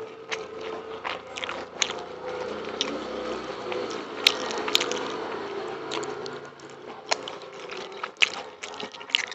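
Close-up sounds of eating rice and chicken with the hands: chewing, wet mouth smacks and squishing, with scattered sharp clicks, the loudest a little after four seconds in, over a steady low hum.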